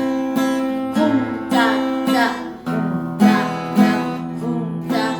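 Acoustic guitar played in a boom-chick-chick waltz strum: a bass note picked on the low strings, then strums across the high strings, on an A minor chord with its root on the fifth string. The strokes come about every half second, and the chord rings between them.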